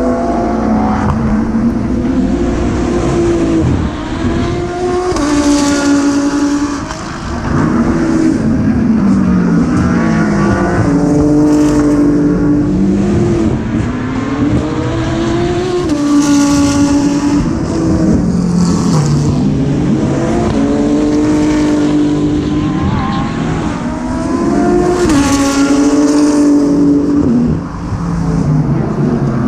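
GT race car engine heard onboard at racing speed, the note climbing through the gears and falling away on downshifts, over and over.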